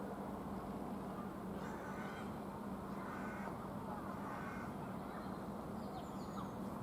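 Steady background hum of the station with several harsh bird calls scattered through the first few seconds.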